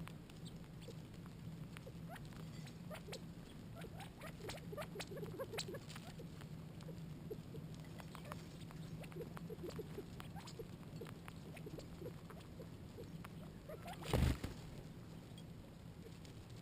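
Small animals feeding close by: scattered light pecks, taps and clicks, irregular and soft, over a steady low hum. One loud thud about fourteen seconds in.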